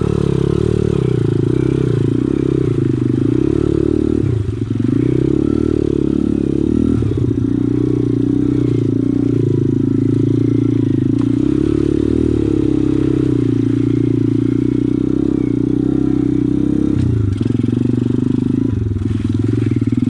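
Pit bike engine running at low to moderate revs, its pitch rising and falling a little with the throttle, with a brief wobble in the note a few seconds in and again near the end.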